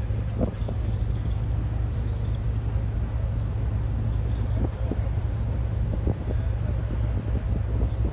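Steady low rumble with wind buffeting the microphone, broken by short irregular knocks.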